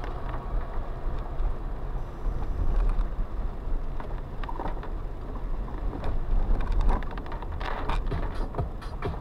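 A car driving in rain, heard from inside the cabin through a dashcam microphone: a steady low road rumble under a hiss, with a run of quick ticks and taps in the last second or two.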